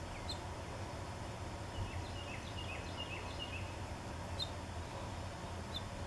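Songbirds chirping over a steady low background rumble: a few single sharp high chirps, and a quick run of short falling notes from about two to three and a half seconds in.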